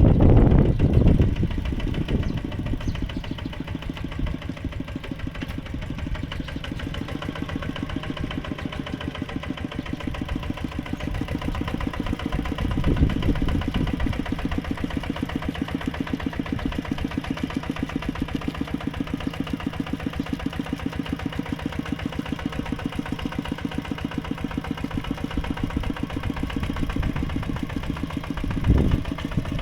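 Mini tractor engine running with a steady, even chugging while plowing mud. It is louder in the first second or two and surges briefly around the middle and again near the end.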